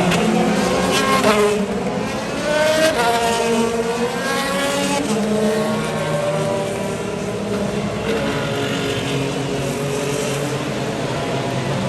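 IndyCar race cars' 2.2-litre twin-turbo V6 engines running at pace-lap speed, several cars passing one after another, each engine note falling in pitch as it goes by, with some revving up in between.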